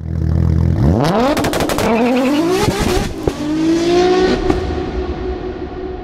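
Car engine revving hard: a low steady note that climbs steeply in pitch about a second in, drops back and climbs again, then holds a steady note that slowly fades. A run of sharp cracks comes during the first climb.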